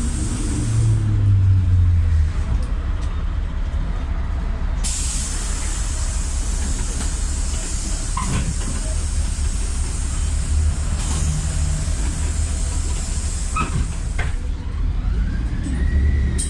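Inside a PAZ 320414-04 city bus on the move: its YaMZ-53423 natural-gas engine running with a low rumble, and a high hiss that cuts out and comes back several times. Near the end a wailing siren rises and falls.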